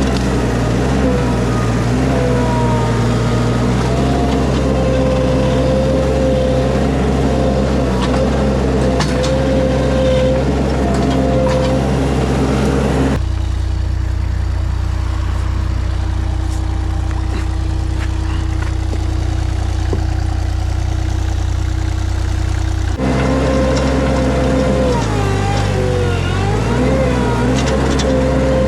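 Mini skid steer running under load, its engine note steady with a whine that dips and rises in pitch as it works. The sound changes abruptly to a steadier hum about halfway through, then returns to the working whine about ten seconds later.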